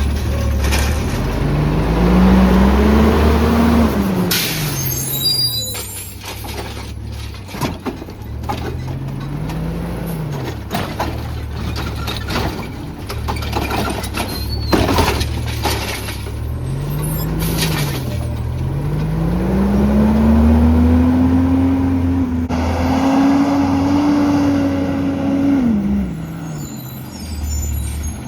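Autocar ACX automated side-loader garbage truck at work: the engine revs up and back down several times, with the last rev held for several seconds before it drops, while the hydraulic arm cycles. Short bursts of air-brake hiss and a few clanks are heard.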